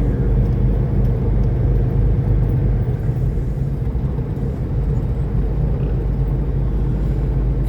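Semi truck's diesel engine running steadily at a constant speed, a low hum heard from inside the cab.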